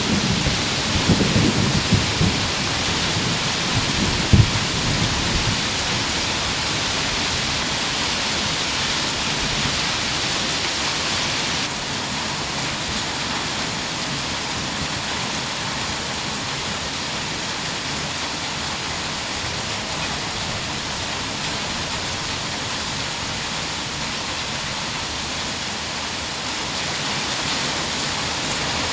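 Heavy rain falling in a steady hiss. Low thunder rumbles and dies away over the first few seconds, with one sharp crack about four seconds in.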